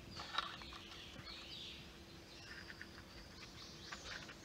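Faint bird chirps in the background with a few light clicks as a new plastic oil pump worm gear is pushed onto a chainsaw crankshaft by hand, the loudest click about half a second in.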